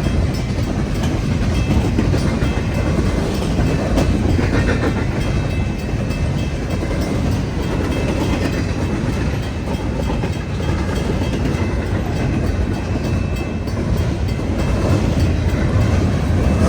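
Freight cars of a long train rolling past a grade crossing: a steady rumble of steel wheels on the rails, with faint wheel squeal above it.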